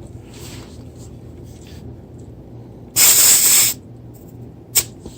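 Short burst of compressed air hissing from a scooter tire's valve stem as a pressure gauge is pressed onto it, lasting under a second, followed about a second later by a single sharp click.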